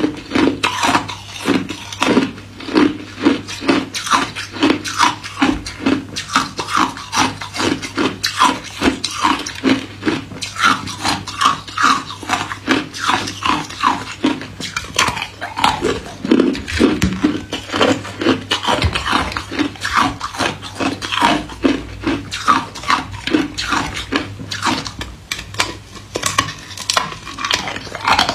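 A person chewing hard ice cubes close to the microphone: a steady run of sharp crunches, a few a second.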